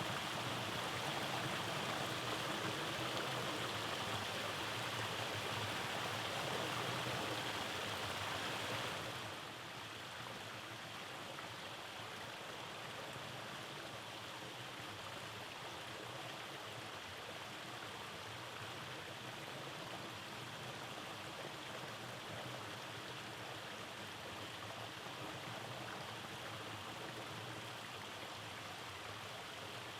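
Rainforest stream rushing over rocks and small cascades, a steady wash of water. About nine seconds in it drops suddenly to a softer, duller level and stays there.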